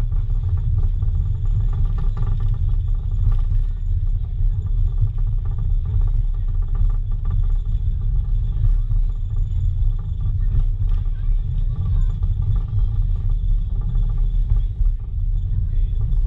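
Passenger coach of a steam-hauled heritage train rolling along the track: a steady low rumble with scattered light clicks and rattles.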